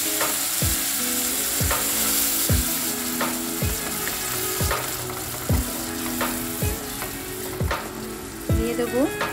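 Spice paste sizzling in hot oil in an aluminium kadai as a spatula stirs it, over background music with a steady beat about once a second.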